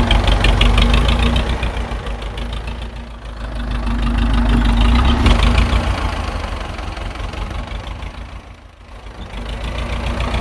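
A mini tractor's engine running with a fast knocking beat. It gets louder and fades away twice, dropping off almost completely near the end.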